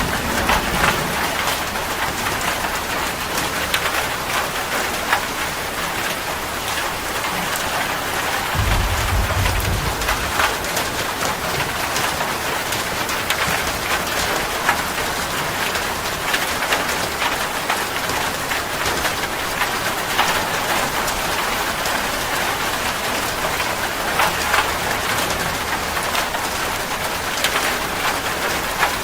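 Steady rain falling onto a hard surface, with many separate drops ticking through the hiss. A short low rumble comes about nine seconds in.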